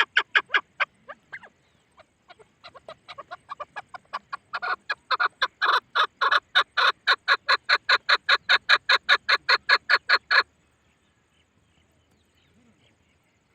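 Chukar partridge calling: a rapid, even run of short sharp notes, about five a second. A first run fades out after a second or so; then a second run builds up, grows loud, and stops abruptly about ten seconds in.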